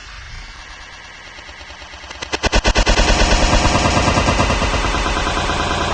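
Radiator cap opened on a hot, pressurised engine: about two seconds in, boiling coolant and steam burst out of the filler neck in a loud, rapid sputtering rush that keeps going, the sign of an overheated cooling system under pressure.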